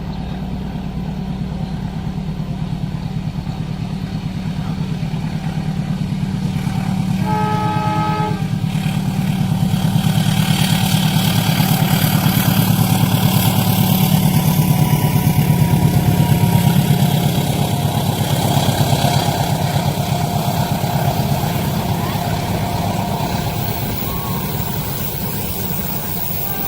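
A diesel locomotive approaching and passing at speed, its engine rumble building up and then easing off. It sounds one short horn blast about seven seconds in, and then wheels rush and clatter over the rails as the train goes by.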